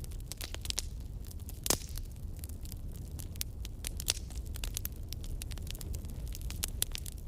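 Campfire crackling: irregular wood pops and snaps over a steady low rumble, with one sharp, loud pop about two seconds in.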